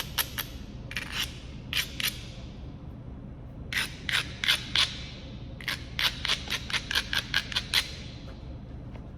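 Kentucky hornstone being worked in flintknapping: runs of quick, sharp scraping strokes against the stone's edge, about five a second, in several bursts with short pauses between.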